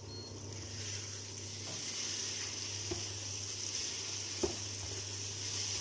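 Eggplant, sardine and egg mixture sizzling in a nonstick frying pan on an induction cooktop, the sizzle growing louder about a second in. A short beep comes at the start as the cooktop's control is pressed, and a few light clicks of a spatula against the pan follow as the food is stirred.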